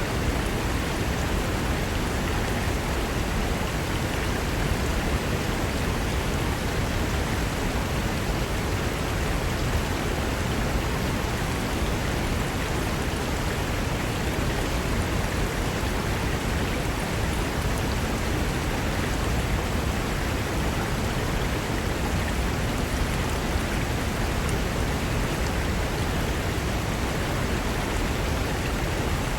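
Mountain river flowing fast over rocks: a steady, even rush of water with no breaks.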